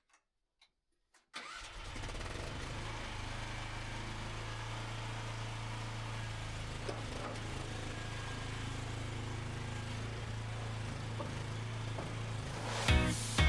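Mini skid steer's engine running steadily at a low, even pitch, cutting in abruptly about a second in. Music with strummed guitar starts near the end.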